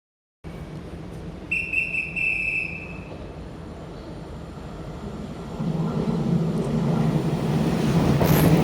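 A Taiwan Railways Puyuma (TEMU2000) electric tilting express is approaching, its low rumble building steadily louder from about five seconds in. Earlier, a single high whistle-like tone sounds for about a second.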